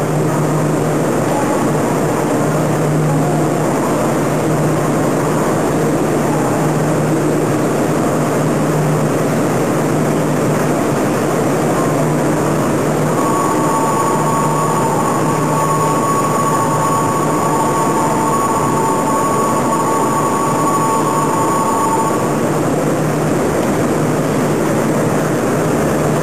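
Steady hum and rush of an electric commuter train standing at a station platform, its onboard equipment running. About halfway through, a steady two-note electronic tone sounds for about nine seconds, then stops.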